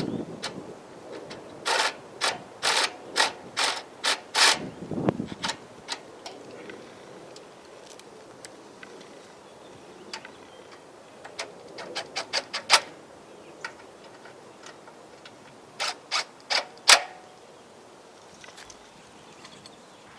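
Sharp clicks and knocks in three bursts with quiet in between, about eight in quick succession near the start, a handful around the middle and four near the end: hand work on a small engine.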